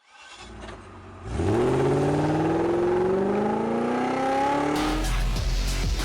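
A car engine accelerating hard through its exhaust, its pitch climbing steadily for about three and a half seconds as it pulls through a gear. Music cuts in about five seconds in.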